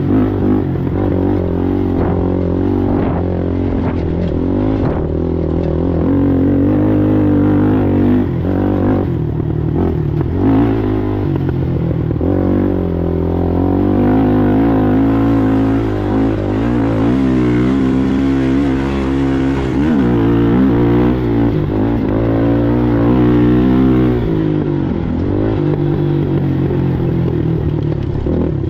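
Sportsman ATV engine running hard under race load, revs rising and falling again and again as the throttle opens and closes.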